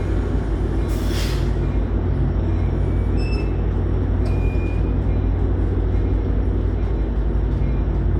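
Amtrak San Joaquins passenger train rumbling steadily, with a short hiss of air about a second in and two brief high squeals a few seconds later.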